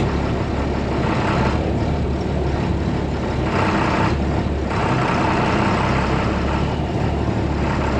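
Farm tractor engine running steadily, with a brief louder stretch about halfway through.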